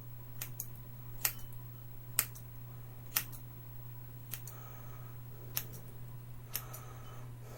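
Scissors snipping hair: sharp snips at irregular intervals, about one a second, with a faint rustle between some of them. A steady low hum lies underneath.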